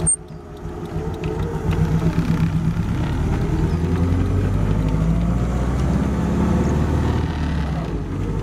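Vintage car driving, heard from on board: its engine runs with a low, steady note that rises and falls a little in pitch as the car changes speed.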